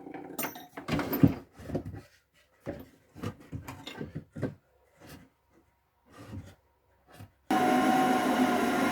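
Wooden boards and tools handled on a workbench, with scattered knocks and scrapes; about seven and a half seconds in, an electric drill starts and runs steadily, pre-drilling for the screws.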